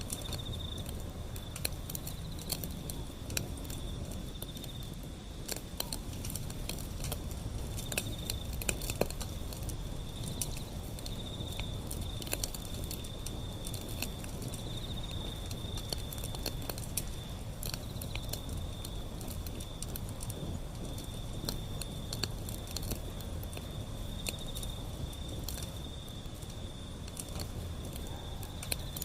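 Wood fire burning, with frequent sharp crackles and pops over a low rumble of flames. A steady high insect trill sits behind it.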